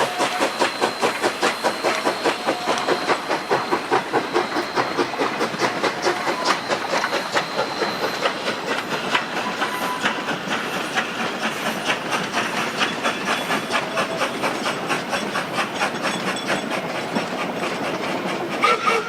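Narrow-gauge K-27 Mikado steam locomotive No. 463 working under steam, its exhaust chuffing with a hiss at about four or five beats a second. The beats grow quicker and softer as it goes.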